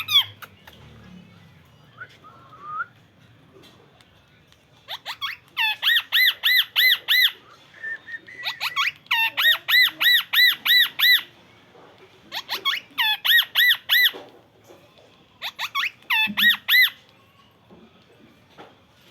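Parrot squawking in bursts of rapid, repeated shrill calls, about three or four a second, in four bouts of one to two seconds each.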